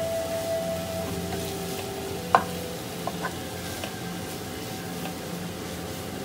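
Mutton pieces sizzling as they fry in oil in a nonstick pan while a wooden spatula stirs them. A sharp knock of the spatula against the pan a little over two seconds in is the loudest sound, followed by a couple of lighter taps.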